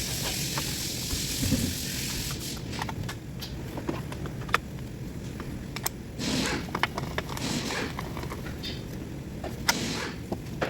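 Scattered metallic clicks and knocks of work on a car engine, with a hiss that fades out about two seconds in and several short rushes of noise later on.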